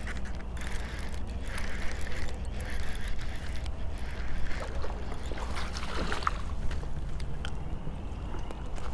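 Water splashing and sloshing as a small fish is reeled in from a pond, with a steady low wind rumble on the microphone and a few short clicks.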